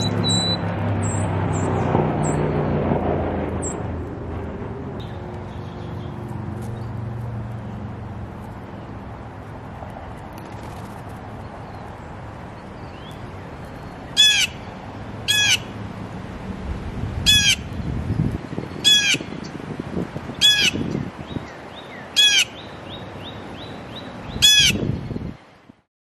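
Soft background music fading out over the first few seconds, then a bird calling loudly seven times, short calls a second or two apart, with faint bird chirps behind.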